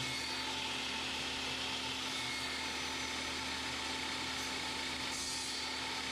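A power tool running steadily.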